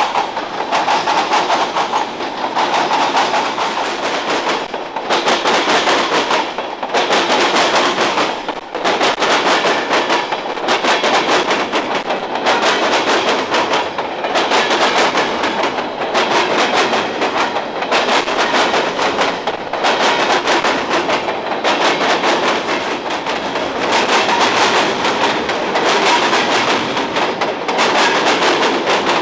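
CSX freight train rolling past, its wheels clattering over the track in a rapid, steady clickety-clack.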